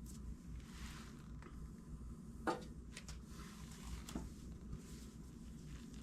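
Quiet workshop room tone with a steady low hum and a few faint, light knocks and clicks, the clearest about two and a half seconds in.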